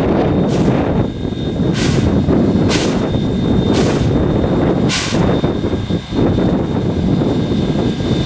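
Steam locomotive standing with steam up: a steady low rumble, with short sharp hisses of steam about once a second that stop about five seconds in.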